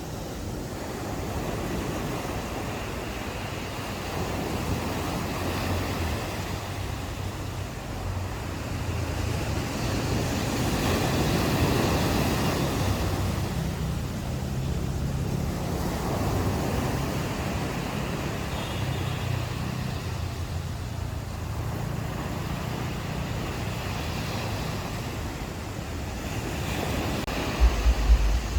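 Ocean waves washing onto a beach, the surf swelling and fading in slow surges, loudest about twelve seconds in. Wind buffets the microphone with a few low bumps near the end.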